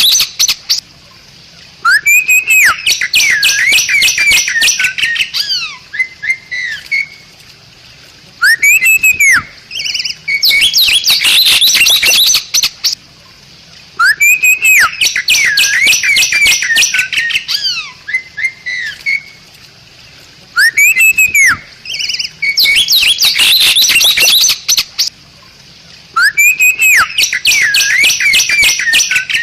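Bali myna singing in repeated loud phrases: each starts with arched, gliding whistles and runs into a rapid chattering series of sharp notes, with a short pause before the next phrase about every six seconds.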